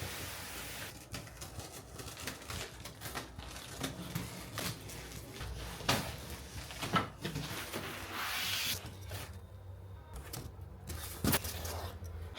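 Irregular knocks, clicks and rustling of objects being handled, after a steady hiss that fades out about a second in.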